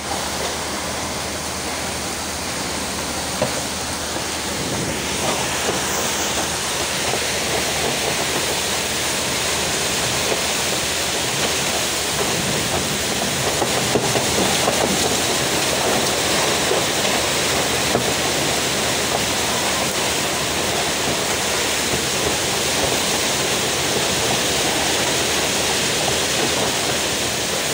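Storm wind and rain: a steady rushing noise that grows a little louder after about five seconds.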